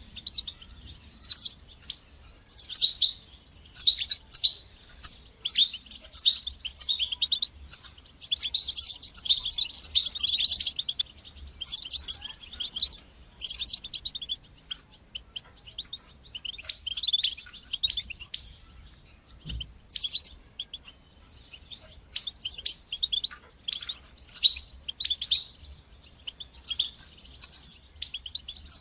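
European goldfinch twittering: bursts of quick, high chirps and trills with short pauses between them. These are the call types that goldfinch keepers play to stimulate their birds to sing.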